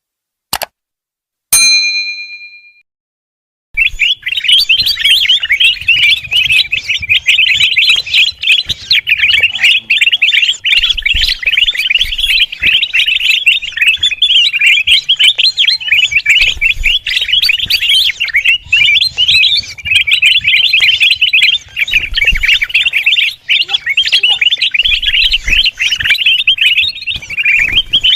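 A short click and a ringing chime at the start, then from about four seconds in kutilang emas (a bulbul) chattering loudly and without pause in rapid, busy calls. This is a lure or mastering recording of the bird.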